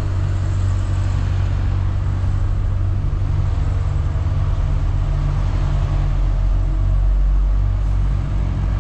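Heavy goods vehicle's diesel engine running steadily at low revs, its low hum deepening about seven seconds in.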